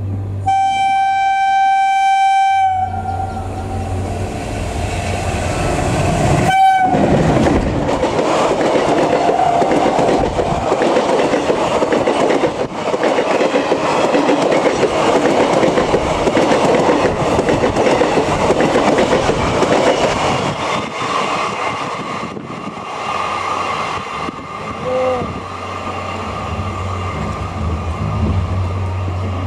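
WAP-4 electric locomotive sounding its horn in one long blast of about two seconds, then a short second blast as it passes at speed. Its ICF coaches follow, rushing past with loud rolling noise and the clickety-clack of wheels over rail joints, which eases over the last several seconds.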